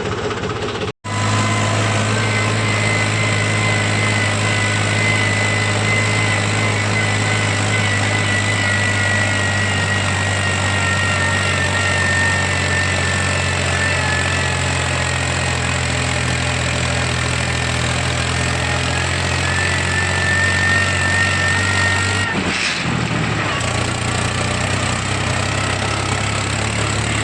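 Tractor's diesel engine running steadily, with a high whine that drifts slowly down in pitch. The sound cuts out for an instant about a second in and shifts briefly near the three-quarter mark.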